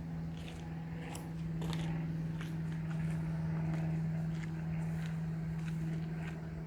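Footsteps on a path, irregular short crunches about twice a second, over a steady hum.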